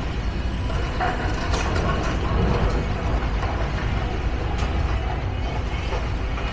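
Steady low rumble of heavy engines and traffic, with a few faint knocks.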